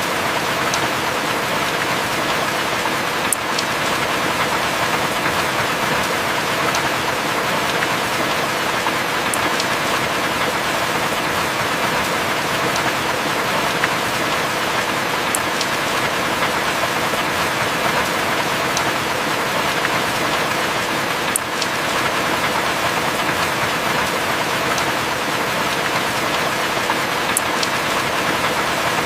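Steady heavy rain falling, an even hiss without let-up, with a few sharp single drip ticks every several seconds.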